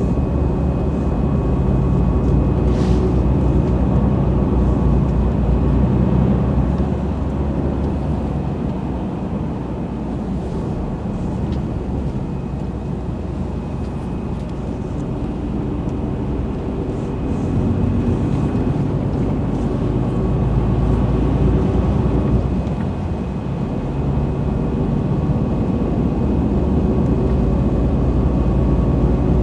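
Heavy truck running: a steady low engine drone with a faint thin whine above it, easing off for several seconds in the middle and building again.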